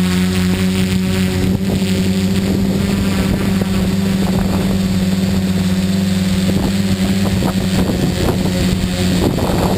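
Tricopter's electric motors and propellers humming at a steady pitch in flight, with wind buffeting the microphone.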